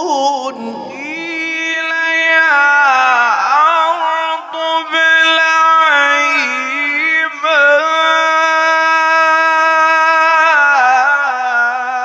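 Melodic Quran recitation: a single reciter's voice holds long, ornamented notes at a mostly steady pitch, with small turns and two brief breaks about four and seven seconds in.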